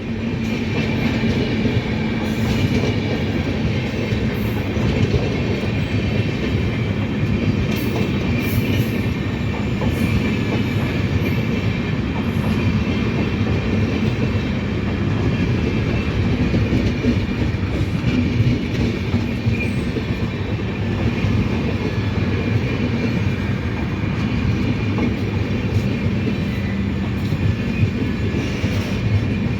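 Indian Railways train rolling past at steady loudness, wheels rumbling and clattering over the rails, with a thin high squeal running through it.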